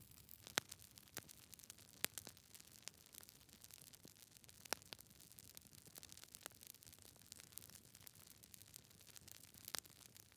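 Wood logs burning in a fireplace, crackling: irregular sharp pops and snaps over a faint hiss, the loudest pops about half a second in, at about two seconds, and near the end.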